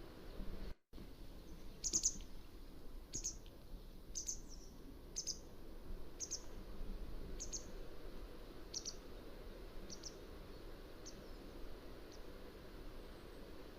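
Mountain wagtail calling: a series of short, high, sharp calls about one a second, growing fainter toward the end, over a steady low background hiss.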